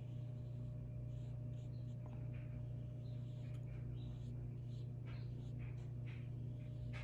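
Faint, short strokes of a paintbrush brushing across watercolor paper, over a steady low hum.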